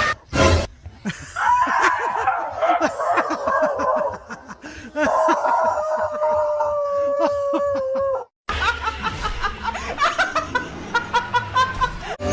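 People laughing and snickering in quick rhythmic bursts, with a brief break about eight seconds in where the sound cuts to another stretch of laughter.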